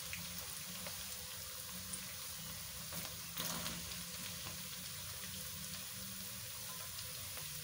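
Oil sizzling steadily as diced potatoes with cumin seeds fry in a wok. There is a brief louder patch about three seconds in as chopped onions are tipped into the pan.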